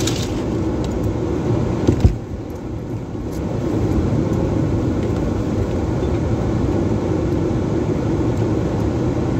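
A car engine running as the vehicle drives along, heard from inside the cabin. About two seconds in there is a sharp thump, after which the sound drops for about a second and then builds again.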